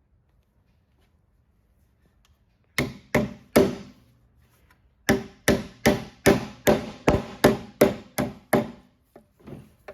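Hammer driving copper nails into a wooden fence post: three blows, a short pause, then a quick run of about ten blows at a little over two a second, and a few lighter taps near the end.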